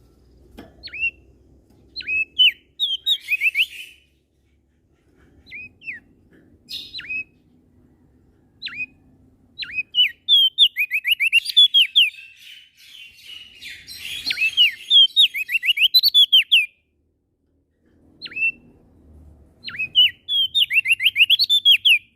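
Prenjak daun singing: phrases of short, sharp, downward-sweeping whistled notes, several of them run together in quick series, with brief pauses between phrases.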